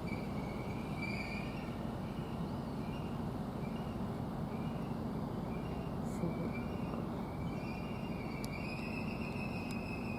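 Class 720 Aventra electric multiple unit running into the platform under braking, a steady low rumble with a faint high brake squeal about a second in and again over the last few seconds.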